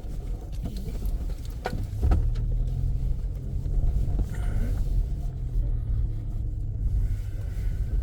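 A car driving on a rough unpaved road: a steady low rumble, with a couple of sharp knocks about two seconds in.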